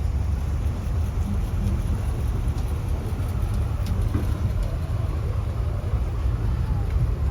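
A car engine running, heard as a steady low rumble.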